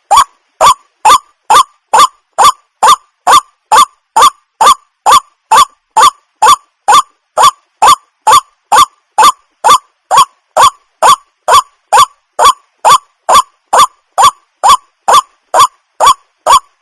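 Waterhen (jal murgi) giving a short, loud call over and over at an even pace, a little more than two calls a second.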